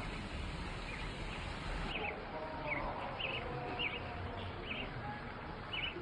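A small bird calling in a series of short, evenly spaced chirps, about one to two a second, clearest in the second half, over a steady outdoor background hiss.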